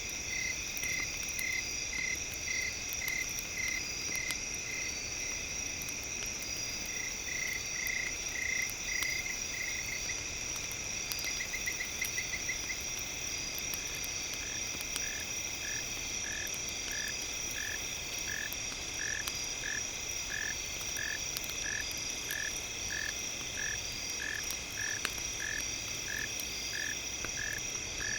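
Night chorus of insects in a steady, high, ringing drone, with a frog calling in short evenly spaced notes, about one and a half a second through the second half, and a brief fast trill about twelve seconds in. Faint light crackles sit underneath.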